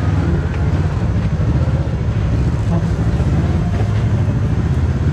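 Kawasaki Teryx KRX4 1000 side-by-side's engine running steadily as it drives slowly along the trail.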